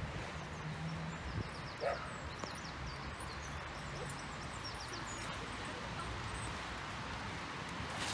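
Outdoor ambience: small birds chirping in quick runs of high notes over a steady low rumble, with one short, louder sound about two seconds in.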